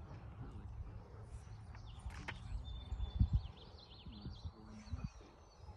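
Birds chirping over a steady low rumble, with a few short low thumps about three seconds in and again near the end.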